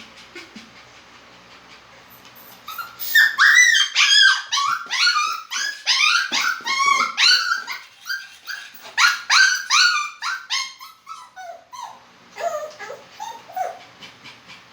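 Poodle whimpering and yipping in a rapid string of short, high-pitched cries, about three a second. The cries start about three seconds in, are loudest for the next eight seconds, and grow fainter near the end.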